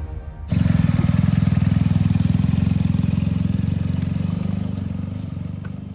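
Motorcycle engine running steadily with a low, rapid pulse, starting abruptly about half a second in and easing slightly quieter toward the end.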